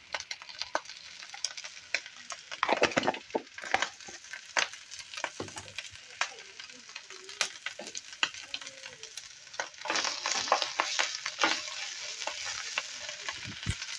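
Grated boiled potato sizzling in hot oil with cumin seeds in a non-stick frying pan, with many small pops. From about ten seconds in, a wooden spatula stirs it and the sizzle grows denser.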